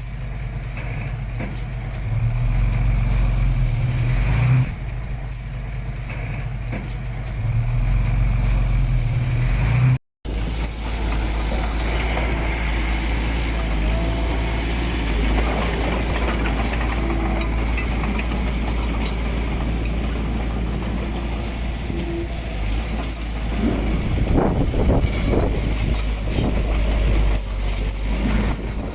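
Heavy diesel engine of earthmoving machinery running under load, swelling twice in the first ten seconds. After a sudden break about ten seconds in, it runs on steadily with scraping and clanking, strongest near the end.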